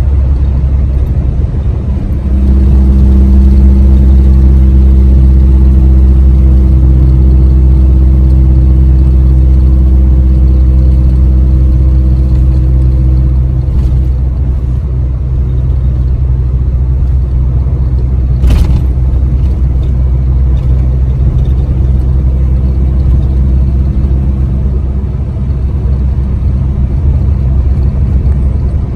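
Ford Ranger pickup truck on the move: a steady low engine and road rumble. It grows louder and its engine note strengthens about two seconds in. A single sharp click comes about two-thirds of the way through.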